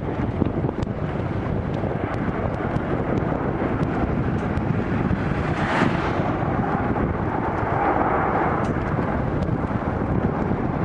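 Boeing 777 airliner's jet engines rumbling under heavy wind buffeting on the microphone, with a brief swell about six seconds in.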